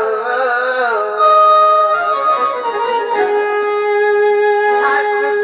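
Sambalpuri folk theatre music: a single melody line of long held notes, gliding between pitches in the first second and then holding a steady note from about three seconds in.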